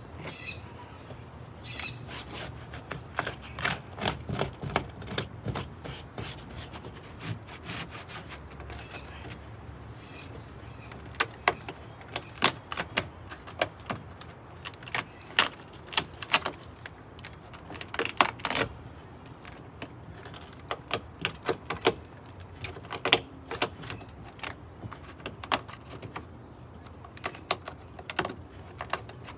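Irregular clicks, cracks and knocks, in loose clusters, of dry-rotted wood being broken and pulled away.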